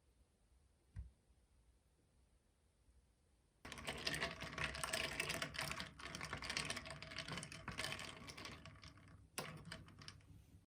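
Dense, rapid clicking and crackling that starts suddenly a few seconds in, runs for about six seconds, thins out, and ends with one more sharp click.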